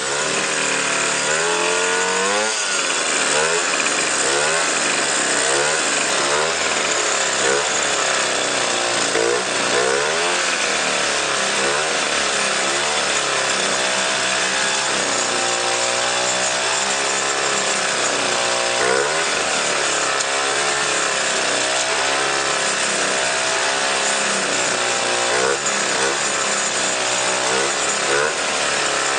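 Jawa 50 Pionýr moped's 50 cc two-stroke single-cylinder engine, with a counter-piston head, running and being revved up and down again and again. It runs unevenly, on what the owner then reads from the spark plug as a very lean mixture.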